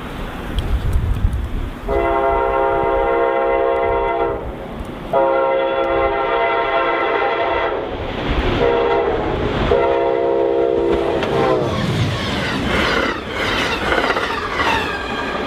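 A multi-tone horn sounding four long blasts of about two to three seconds each, over a steady low rumble; in the last few seconds the horn sound turns into wavering, sliding tones.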